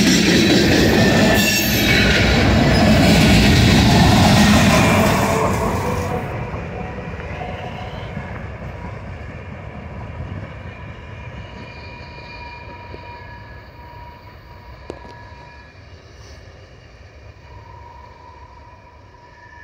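Freight cars of train M692 rolling past close by, steel wheels rumbling and clattering on the rails. About five seconds in the sound begins to fade steadily as the last cars pull away down the line.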